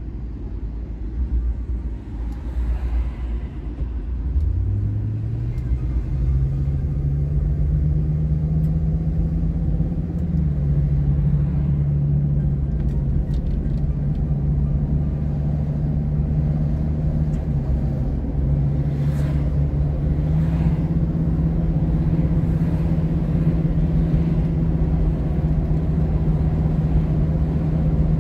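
Ford Excursion's 6.8 V10 engine and low road rumble while driving. About four seconds in, the engine note rises and gets louder, then runs steadily, with brief dips in pitch around ten and eighteen seconds in.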